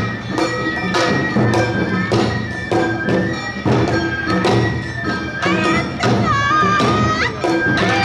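Awa Odori narimono band playing: a steady beat of taiko drum strikes under a high bamboo-flute melody with held notes, sliding between notes about two-thirds of the way through.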